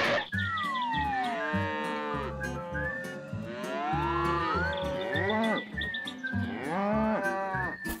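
Several cows mooing, long overlapping calls that slide down and back up in pitch, one after another.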